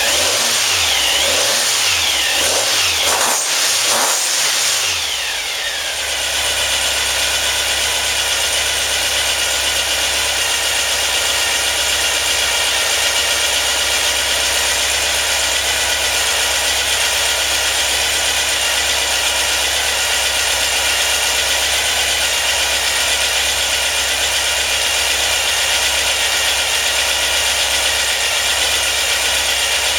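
A 2332cc air-cooled VW flat-four with dual Weber 48 IDF carburetors revved up and down a few times, then settling about five seconds in to a steady, even run.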